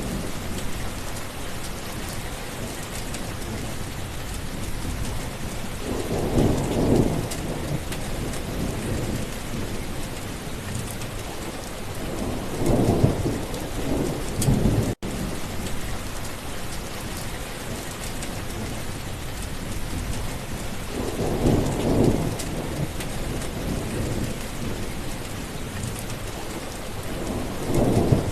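Steady heavy rain falling, with thunder rolling in low rumbles about three times, a fourth starting near the end. There is a split-second break in the sound about halfway through.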